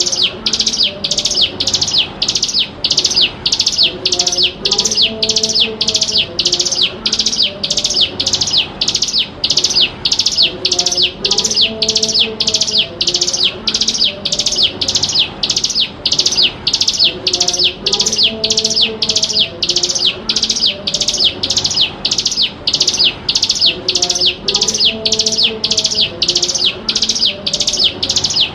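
Ciblek gunung, a prinia, calling non-stop in a rapid, even series of sharp, high chip notes, about two a second, as a lure call.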